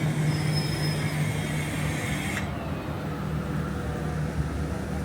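Steady running drone of a Southeastern electric train, a low hum over a hiss of noise. The higher hiss drops away abruptly about two and a half seconds in.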